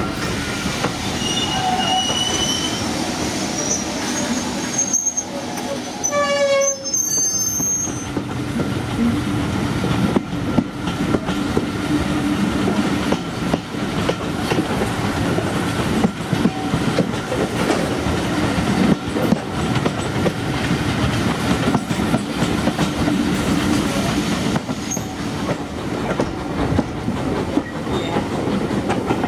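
Preserved steam-hauled train coach running along the track, heard from an open carriage window: a steady rumble with the clickety-clack of wheels over the rail joints. A short whistle note sounds about six seconds in.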